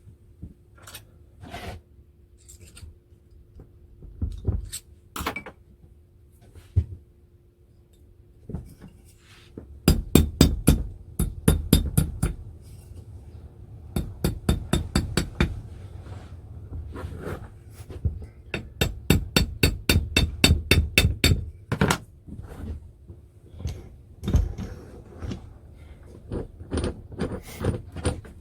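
Metal car jack parts and hand tools being worked during reassembly: scattered knocks, then several runs of rapid, evenly spaced metallic clicks at about five a second, like a ratchet being cranked.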